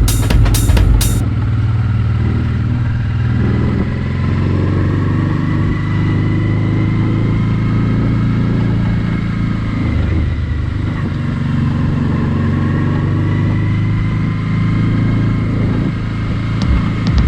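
Honda NT650V Deauville's V-twin engine running at a steady cruise while riding, its pitch drifting slightly up and down, with wind and road noise. A drumbeat of music cuts off about a second in.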